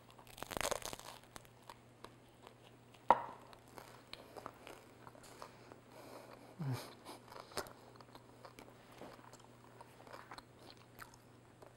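A bite into a crisp-crusted baguette slice, with a crunch of the crust about half a second in, then chewing with many small crackles. A single sharp click about three seconds in.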